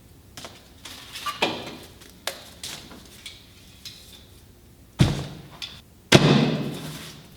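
Loose objects being handled and dropped: a few light knocks and clinks, then two heavy clunks about five and six seconds in, the second the loudest and ringing out for about a second.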